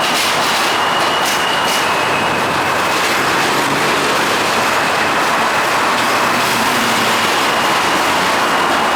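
An R160 subway train running on the rails, a loud, steady rumble of wheels with a thin, steady high whine held through most of it. There are a few sharp clicks in the first two seconds.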